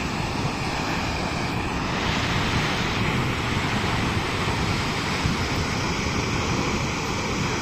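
Düden river waterfall pouring over the cliff into the sea: a steady rush of falling water, with some wind on the microphone.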